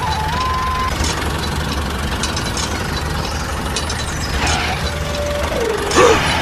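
Mini tractor engine running steadily with a low, even rumble. A few short whistle-like tones sound over it, and there is a louder burst near the end.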